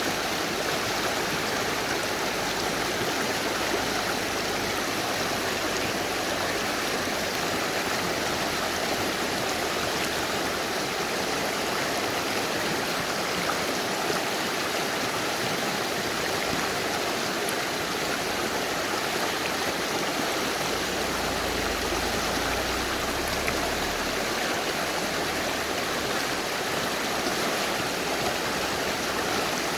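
Mountain river rushing steadily over rocks: a dense, even hiss of running water.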